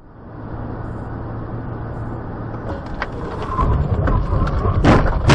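Car driving noise, then a few sharp knocks, a wavering squeal and a loud crash near the end, typical of a road collision.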